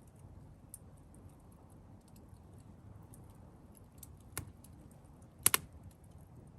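Wood fire crackling: scattered faint ticks, a sharp pop about four seconds in and a louder double pop about a second later.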